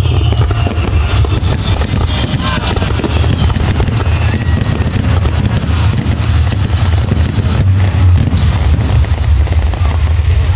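Fireworks crackling and banging in quick succession over a steady low rumble, with music playing.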